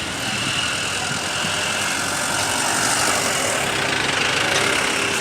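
Motor vehicle engine running steadily, with a constant hiss of noise.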